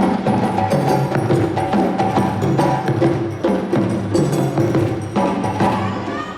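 Live African percussion-ensemble music from the parade: drums and sharp knocking percussion playing a fast, steady rhythm, with pitched notes over it.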